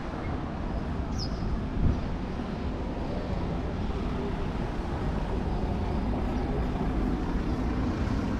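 Steady street traffic noise, a car's engine and tyres running on the road, with a short high chirp about a second in.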